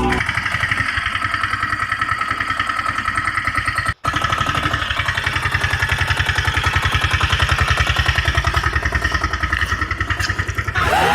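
Engine running steadily with an even chugging beat, like a tractor diesel, broken by a brief cut about four seconds in.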